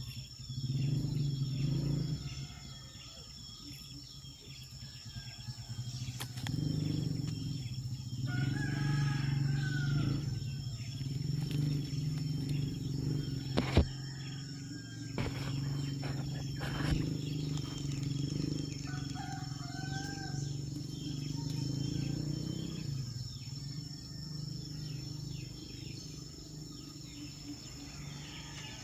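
Birds calling with short chirps over a steady low hum and a high, steady insect-like drone, with a few sharp clicks in the middle.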